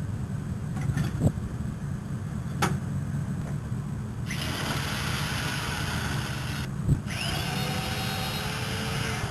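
A power tool runs in two stretches of a few seconds each, the second spinning up with a shifting whine, with a few sharp knocks in between, over a steady low hum. It is being used to begin taking out an old steel door and frame.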